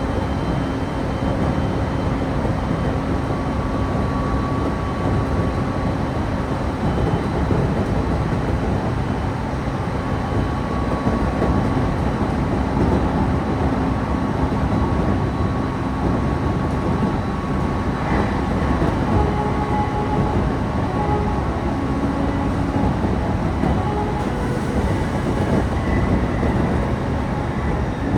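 Running noise of a local electric train heard from inside the car: a steady rumble of wheels on the rails with a faint steady hum over it.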